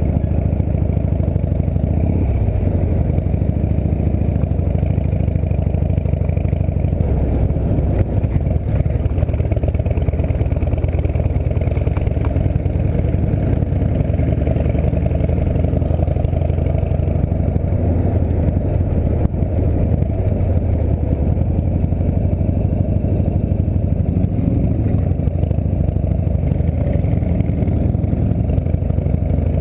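Harley-Davidson V-twin engine of a chopper trike running steadily under way, a continuous low rumble.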